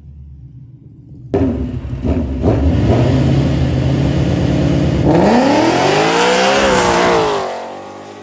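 Drag car launching hard about a second in and accelerating at full throttle down the strip. The engine pitch climbs and dips once late in the run, then fades as the car pulls away.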